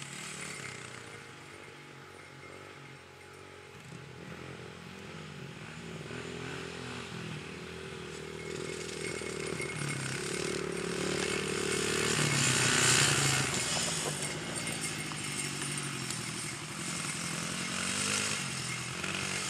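Honda dirt bike engine running, its pitch rising and falling as the throttle is worked. It grows louder to a peak about two-thirds of the way through, as if passing close, then eases off.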